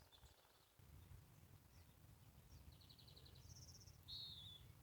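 Faint birdsong: a couple of short, rapid trills about three seconds in, then a brief down-slurred chirp near the end.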